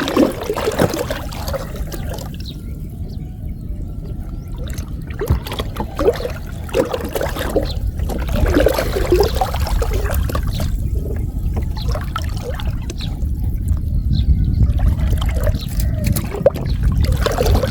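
Water trickling and splashing irregularly as a gill net is drawn up out of flooded-field water and handled, over a steady low rumble.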